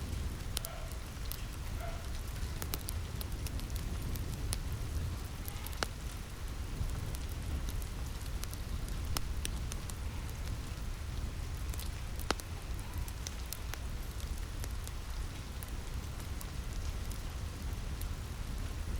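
Steady rain on a roof with a low rumble underneath, mixed with the crackle of a wood fire: scattered sharp pops and snaps over the rain.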